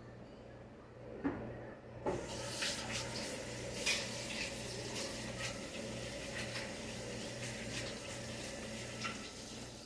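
Kitchen tap turned on about two seconds in, water running into the sink as a steady hiss, then shut off near the end. A single click comes just before the water starts.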